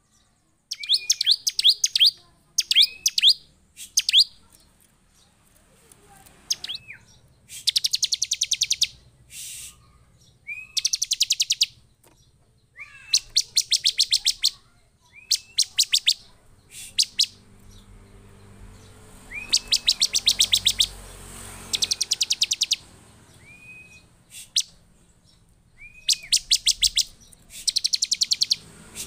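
Bar-winged prinia (ciblek) calling excitedly: sharp chirps with a quick pitch flick alternate with fast buzzy trills about a second long, repeated every second or two. This is the agitated, full-voiced (gacor) calling used as a lure to provoke other ciblek into calling.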